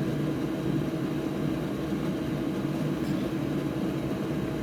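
Steady hum of an electric fan motor, a constant low drone with a few fixed tones and no change.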